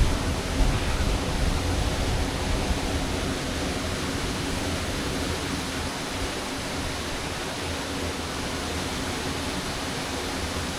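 Waterfall: a steady, even rush of falling water, with a low rumble at the start that eases off over the first few seconds.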